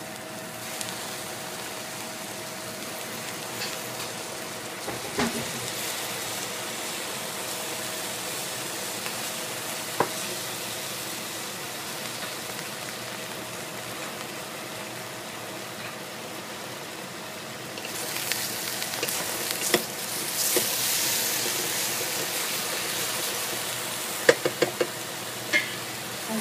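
Eggplant chunks sizzling as they fry in a stainless steel pot, stirred now and then with a wooden spatula. The sizzle grows louder about eighteen seconds in, and near the end the spatula knocks sharply against the pot a few times.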